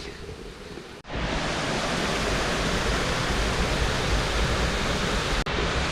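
Waterfall on the West Kill, a steady loud rush of falling water. It starts abruptly about a second in and cuts out for an instant near the end.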